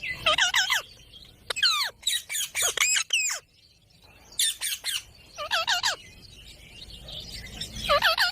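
Pet ringneck parrot calling: about five bursts of rapid, repeated squawking notes with short pauses between them.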